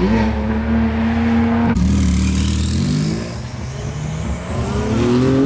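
A sports car's engine revving hard as it accelerates away. Its pitch climbs and holds, drops sharply a little under two seconds in, then climbs again near the end.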